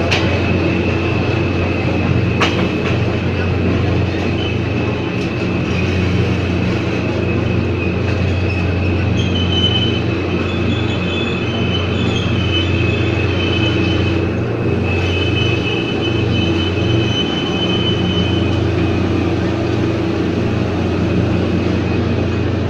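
Ex-JR 203 series electric multiple unit running on the line: a steady rumble and hum with a thin high whine throughout, and higher squealing tones from the wheels joining in from about nine seconds until about nineteen seconds.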